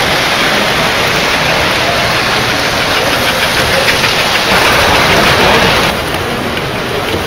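O-scale three-rail model trains running around the layout track, a steady rumble that swells between about four and a half and six seconds in, then drops.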